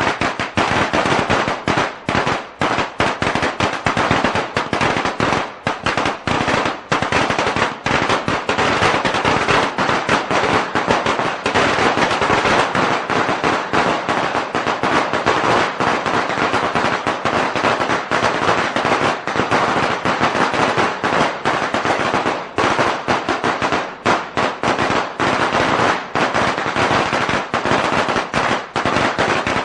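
A long string of firecrackers going off in a rapid, unbroken crackle of bangs, with only momentary lulls.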